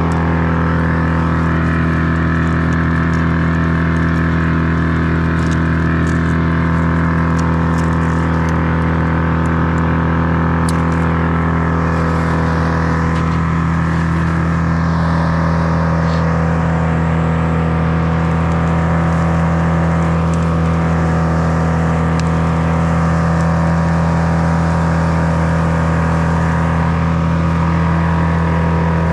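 An engine running steadily at a constant speed, unchanged throughout, with a few faint clicks over it.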